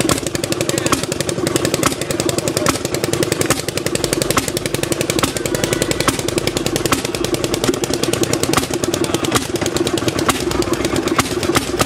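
Railroad speeder's old make-and-break ignition engine running with a rapid, even string of sharp firing beats over a steady engine drone.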